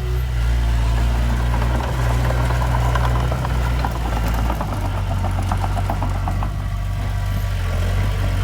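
Diesel engine of heavy earthmoving machinery running steadily with a deep, low note that shifts slightly about halfway through. Faint rhythmic clicking runs through the middle.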